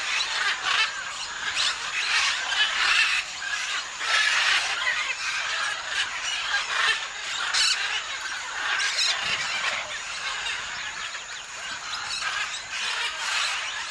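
A flock of parrots calling, many shrill, harsh calls overlapping without a break, with a few sharper calls standing out about halfway through.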